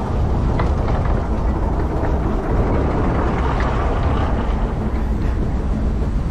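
Narrow-gauge train running along the line: a steady low rumble with a few faint clicks from the wheels.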